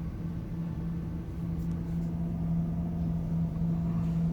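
A steady low mechanical hum with one constant drone, heard from inside a cargo van's cabin as it sits in a touchless automatic car wash between spray stages.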